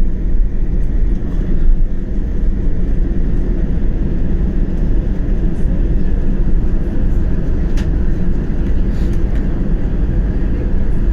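Steady low rumble inside an Airbus A320's cabin on the ground after landing, the engines and airframe running as it taxis. A couple of faint clicks come about two-thirds of the way in.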